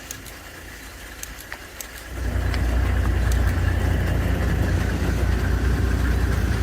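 A vehicle engine comes on suddenly about two seconds in and then runs steadily and low-pitched, with a few faint clicks before it starts.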